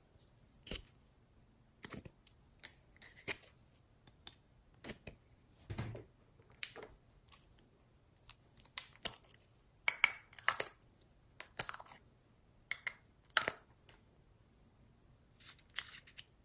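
Slime being worked by hand, giving irregular sharp crackles and pops that come thickest in the second half.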